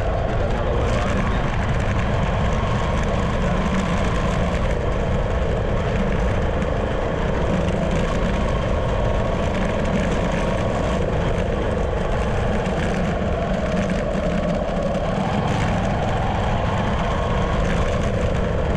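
Steady, unbroken rumble and hiss of a running vehicle engine.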